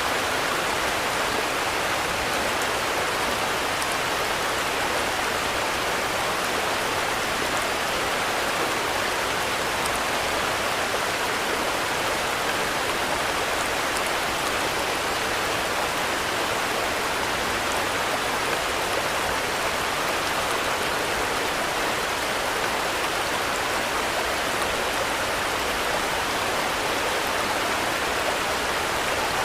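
Steady rain: an even, unchanging hiss of many drops, with no single hits or thunder standing out.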